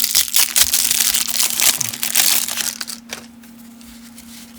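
Cellophane wrapper of a baseball-card cello pack crinkling as it is handled, a dense run of crackles that stops about three seconds in.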